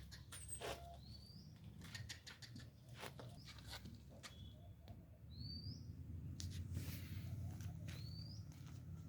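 Short, rising bird chirps repeating every few seconds, with scattered clicks and a low rumble underneath.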